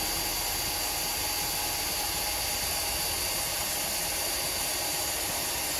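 Power drill running steadily at an even speed, boring a hole through sheet metal, with a thin high whine over the motor noise.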